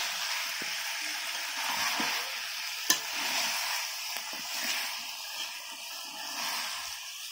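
Masala-coated chicken and potato pieces sizzling in oil in a metal kadai while being stirred and scraped with a spatula, during kosha, the dry-frying of the spiced meat. One sharp click comes about three seconds in.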